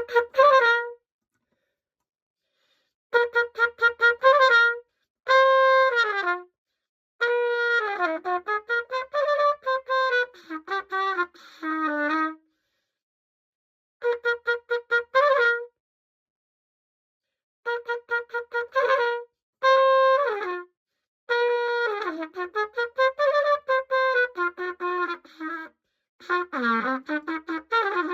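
A freshly repaired pocket cornet played in phrases of short, tongued notes with quick runs, broken by pauses of one to two seconds between phrases.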